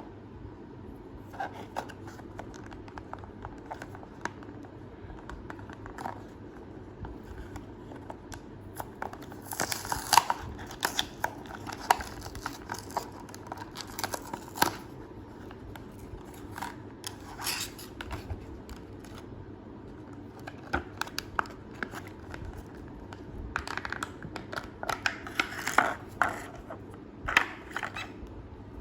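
A toy figure's packaging being opened by hand: irregular crinkling, tearing and sharp plastic clicks in two busy spells, over a steady low hum.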